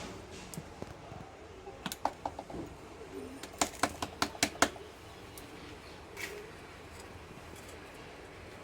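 A run of sharp clicks and taps: a few about two seconds in, then a quicker cluster of about six a second later, over a faint steady hiss.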